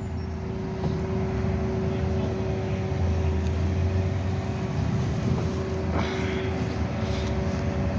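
Street traffic: a vehicle engine running steadily with a held hum, its low rumble swelling for a couple of seconds about three seconds in.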